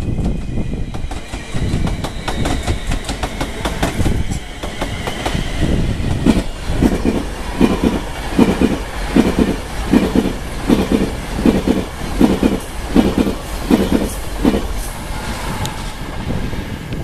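A Virgin Pendolino (class 390) electric express passing at speed, the rumble of its wheels on the rails. Through the middle, the wheels beat over the rail joints in a steady clickety-clack, about one beat every three-quarters of a second.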